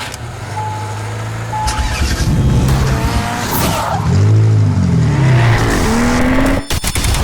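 Car engine revving, its pitch sweeping up and down several times over a steady low running note, then cutting off abruptly near the end.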